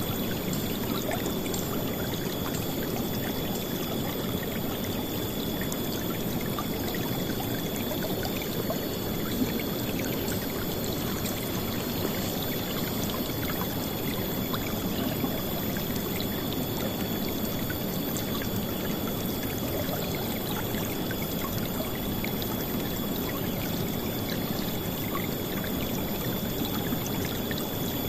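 River water rushing and splashing in a steady, unbroken flow, loudest in the low-middle range, with a thin steady high-pitched tone above it.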